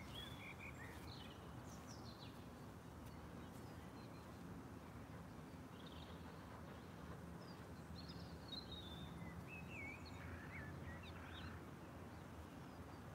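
Faint outdoor ambience: a low, steady background hum with scattered bird chirps and short warbling calls, busiest in the second half.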